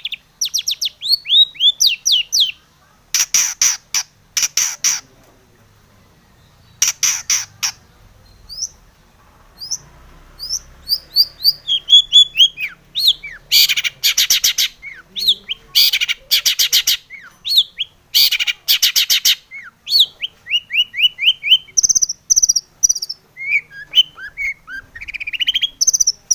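Long-tailed shrike (cendet) singing: runs of quick downward-slurred whistled notes alternating with harsh, rasping chatters, with a quieter pause about a quarter of the way in.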